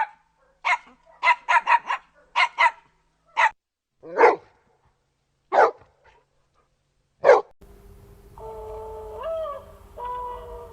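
A dog barking in single sharp barks, with a quick run of several barks a second or so in, then spaced barks. Over the last few seconds the barking gives way to a held, wavering pitched whine over a steady hum.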